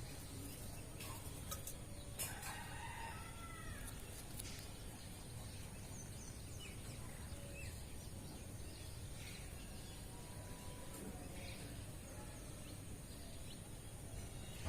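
A rooster crowing faintly once, about two seconds in, with a few short bird chirps scattered through a steady low background noise.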